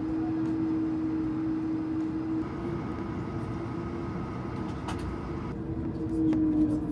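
Airbus A220 with Pratt & Whitney geared turbofan engines taxiing, heard from the cabin: the engines' humming 'whale song' tone held over a low rumble. The tone bends down and back up near the end, and there is one short click about five seconds in.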